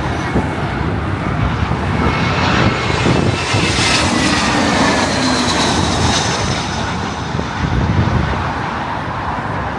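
Jet airliner passing low overhead as it comes in to land. Its engine noise swells to a peak about halfway through, with high whining tones that fall in pitch as it goes by.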